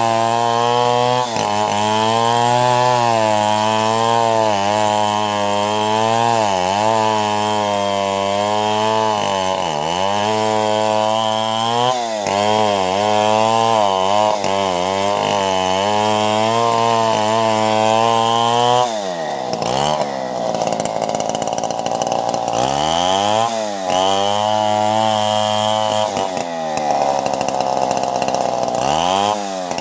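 Two-stroke chainsaw running hard while ripping timber into planks, its engine note sagging briefly again and again as the chain bites. About 19 s in it drops to a lower, steadier speed for a few seconds, then revs back up into the cut.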